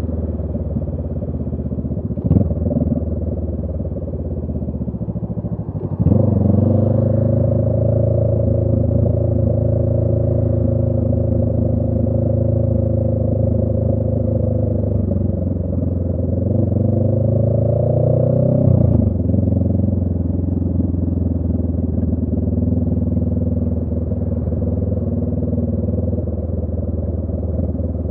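2018 Honda Rebel 500's 471 cc parallel-twin engine through a Radiant Cycles Shorty GP exhaust, heard from the rider's seat. The bike runs steadily, and about six seconds in the throttle opens and the exhaust note gets suddenly louder. Near the end the revs climb, then drop abruptly and the engine settles back to a steady run.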